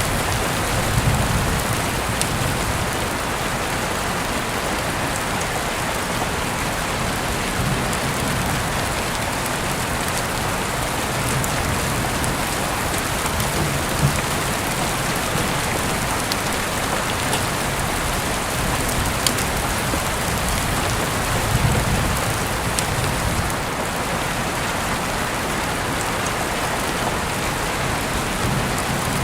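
Heavy rain falling steadily, a dense even hiss of drops, with a few brief low rumbles under it.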